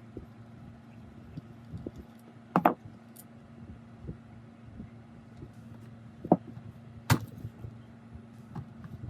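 Three sharp metallic knocks and clinks, the first a quick double about two and a half seconds in, with lighter ticks between, over a steady low hum. These are typical of hand tools working on the rusty metal parts during disassembly.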